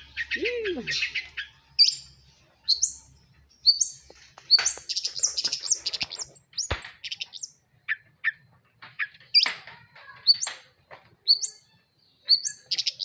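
Long-tailed shrike (Madura cendet) singing: a varied string of short, high notes that sweep upward, broken by a dense run of rapid notes about halfway through.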